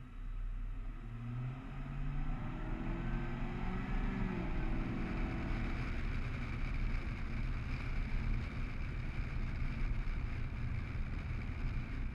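Car engine pulling away from a standstill, heard from a hood-mounted camera. The engine note rises for the first few seconds, drops sharply about four and a half seconds in, then the car runs on steadily under a wash of wind and road noise.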